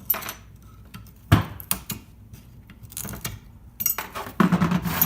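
Small metal parts clinking and rattling as worn brake pad hardware clips and tools are handled, with scattered sharp knocks, one loud knock about a second in and a clatter near the end.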